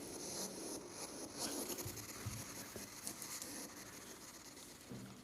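Uneven scratching and rubbing, with many small clicks.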